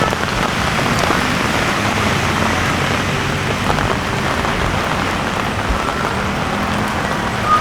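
Steady heavy rain falling on pavement, with the low rumble of passing road traffic beneath it.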